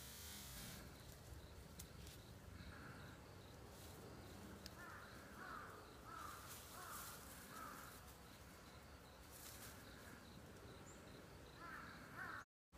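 Faint bird calls outdoors: a run of short calls, five of them about half a second apart, with a few more later.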